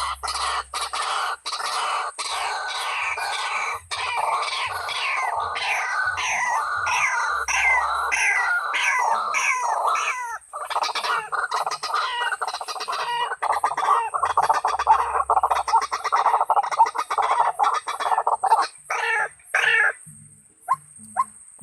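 White-breasted waterhen calls: a fast, dense run of repeated falling croaking notes that breaks off about twenty seconds in, leaving a few short, separate notes.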